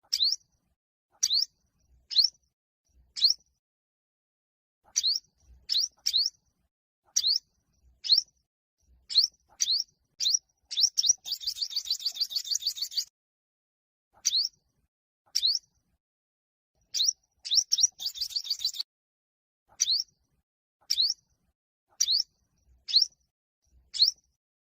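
Olive-backed sunbird (yellow-bellied sunbird) singing: sharp, high, upward-sweeping chirps about one a second, broken twice by a fast rattling trill of about two seconds, around the middle and again a few seconds later.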